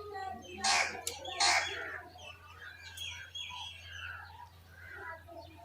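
Birds calling: two loud, harsh calls about a second in, with softer chirping scattered through the rest.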